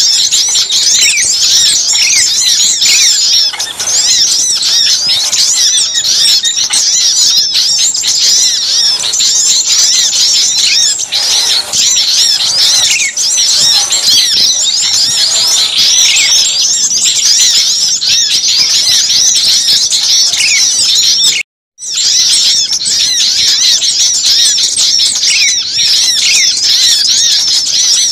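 Dense, noisy chorus of many small birds chirping and twittering over one another in an agitated commotion: a recording used to lure small birds. The sound cuts out for a split second about three-quarters of the way through.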